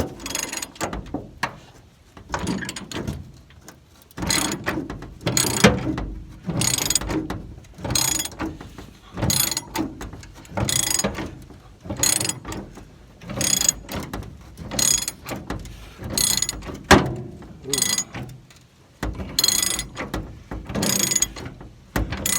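Hand ratchet wrench with a T55 Torx bit backing out a truck bed bolt, its pawl clicking in a burst on each swing of the handle, about one swing every second and a half.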